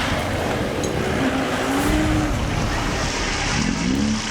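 Engine of a modified off-road 4x4 revving under load, its pitch rising and falling twice over a dense rumble.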